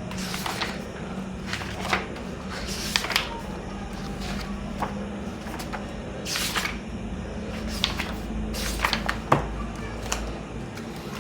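Book pages being turned by hand: a short papery swish every couple of seconds, with a few small handling clicks, over a steady low hum.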